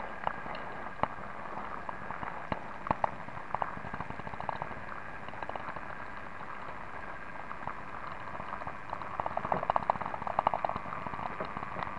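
An 009 narrow-gauge model diesel running along its track: a steady rattling with sharp clicks from the wheels on the rails, growing into a dense run of clicks near the end.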